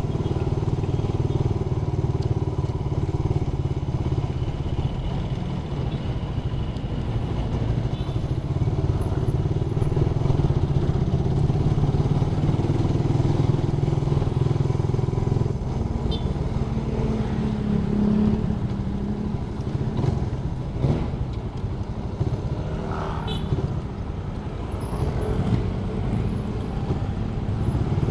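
Suzuki Raider 150's single-cylinder four-stroke engine running steadily under way, with wind and road noise.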